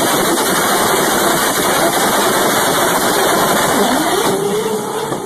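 Drag car at full throttle launching off the start line and accelerating away down the strip: a loud, rough engine and exhaust noise, with the engine note rising about four seconds in.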